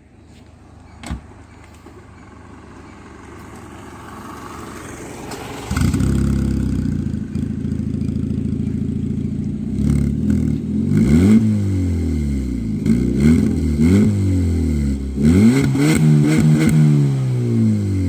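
Ford Figo's engine starting about six seconds in, idling, then revved up and let fall several times in quick blips.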